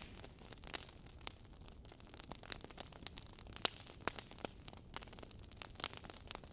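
Wood fire burning in a fireplace: logs crackling with irregular sharp pops and snaps over a faint steady hiss.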